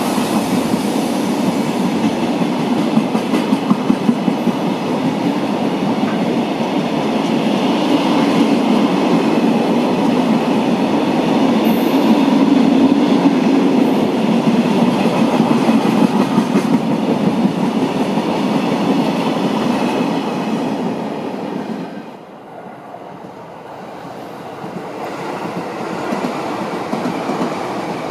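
Freight train wagons rolling past, wheels clattering over the rail joints in a steady rumble. The sound drops sharply about 22 seconds in, then builds again toward the end.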